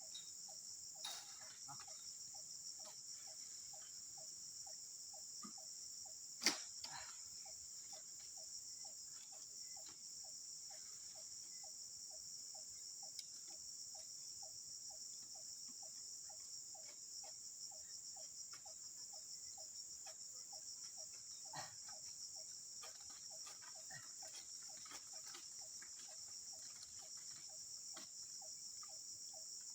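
Steady high-pitched chorus of night insects such as crickets, with a regular low ticking at about three a second beneath it. A few sharp knocks break in, the loudest about six and a half seconds in.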